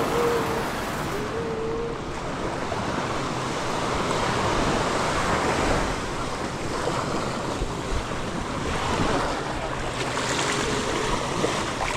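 Sea waves breaking and washing up on a sandy beach, the surf swelling and easing over several seconds, with some wind on the microphone.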